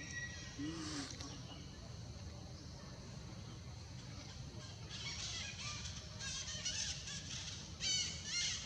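Repeated short, high-pitched animal calls starting about halfway through, coming in quick groups and loudest near the end, over a steady low background hum.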